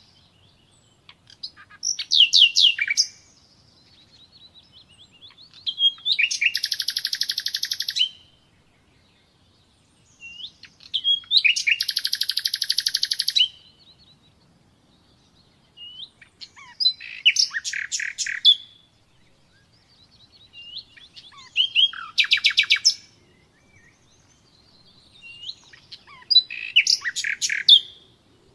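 Common nightingale singing: about six separate phrases, each a fast run of repeated high notes lasting one to two seconds, with pauses of a few seconds between them.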